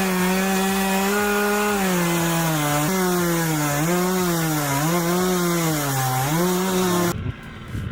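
Small chainsaw cutting through timber in a milling guide jig, its pitch sagging and recovering again and again as the cut loads it. It stops abruptly near the end.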